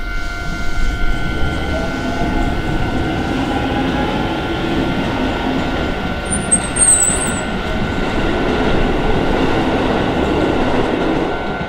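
Keisei Main Line train passing over a level crossing, a steady rumble of wheels on rail, with the crossing alarm ringing on as a steady tone. A brief high-pitched squeal from the wheels comes about six to seven seconds in.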